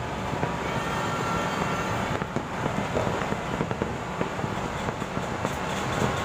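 Distant fireworks and firecrackers popping and crackling without letup over a low rumble.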